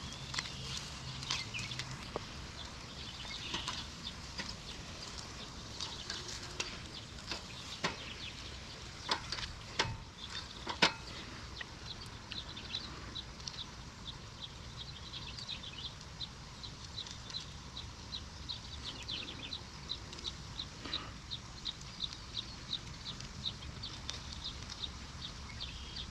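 Birds calling outdoors, with a run of quick, evenly repeated high chirps through the second half, over a steady background hiss. A few sharp clicks stand out about ten seconds in.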